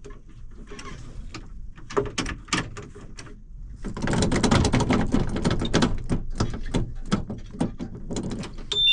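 Clicks and knocks of controls being worked in a tractor cab, then several seconds of dense, loud rattling, with a high warning-buzzer tone starting at the very end.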